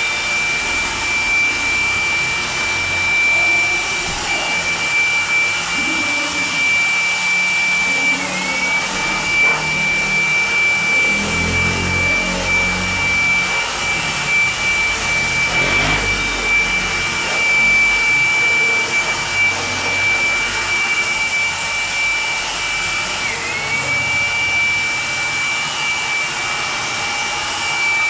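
Electric pressure washer running steadily with a high motor whine over the hiss of the spray. The whine sags briefly and then recovers twice, about 8 seconds in and again near 23 seconds.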